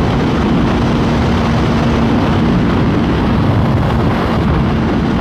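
Sportbike engine running at a steady pitch, with a rushing noise around it.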